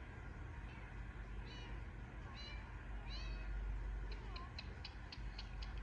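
Baby Indian ringneck parakeet calling: three short, high, squeaky cries, then a quick run of about eight short ticking chirps in the second half. A steady low hum sits underneath.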